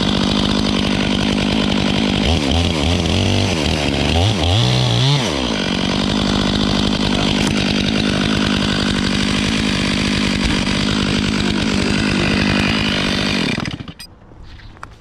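Two-stroke chainsaw running at high revs. For a few seconds about two seconds in, its note sags and climbs back up as it loads in a cut, then it runs steady again until it cuts off near the end.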